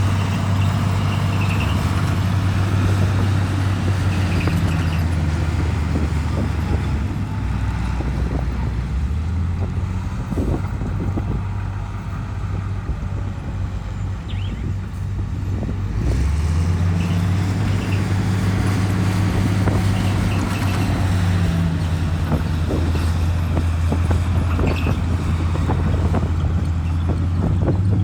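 Bulldozer's diesel engine running hard with clanking and rattling from the tracks and blade; the engine eases off and drops in pitch for several seconds in the middle, then comes back up.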